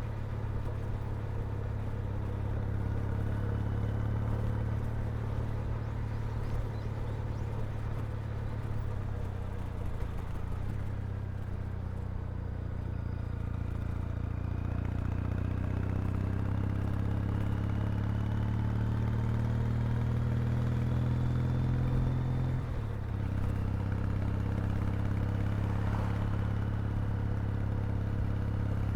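Kawasaki W800's vertical-twin engine and exhaust under way, the engine note climbing slowly as the bike gathers speed, dipping briefly about three-quarters of the way through at a gear change, then running steady again.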